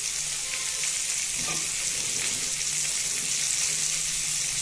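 Raw chicken pieces sizzling in hot oil in a kadai with fried onions, ginger, garlic and dried red chillies: a steady, even hiss.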